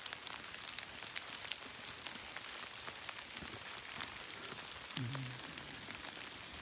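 Light rain falling on forest leaves: a steady hiss with many irregular, sharp ticks of single drops.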